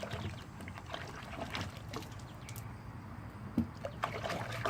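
Water splashing and dripping in small irregular splashes as a child plays in it, with one louder knock about three and a half seconds in.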